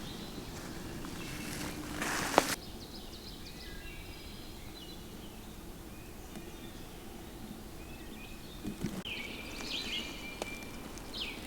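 Woodland songbirds chirping with short high notes, faint at first and louder near the end. At the start there is rustling that ends in a single sharp knock about two seconds in.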